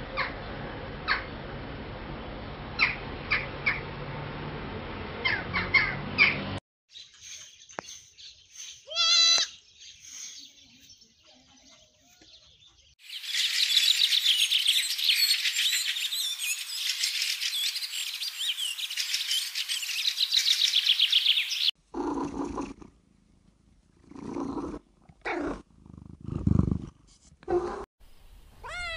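A run of separate animal sound clips. First a steady noisy din with sharp calls, then a few isolated calls, then a dense chorus of high chirping birds for about eight seconds. Near the end comes a cat meowing several times.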